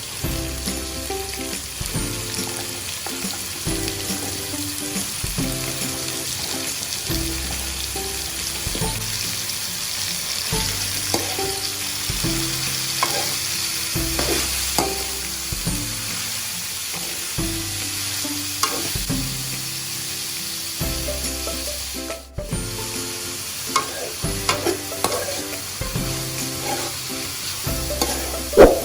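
Food sizzling and frying in a pan while being stirred, with a spatula scraping and clicking against the pan and one sharp knock near the end.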